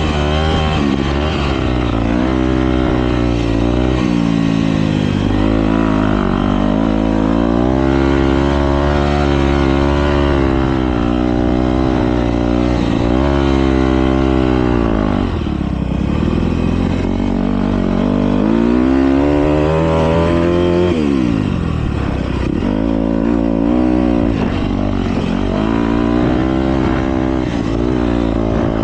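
Motocross bikes racing, engines revving up and falling off again and again as they accelerate and shift, with several bikes heard at once.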